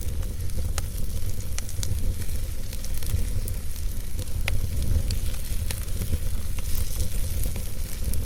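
Logs burning in a fireplace, crackling and popping at irregular moments over a steady low rumble and hiss.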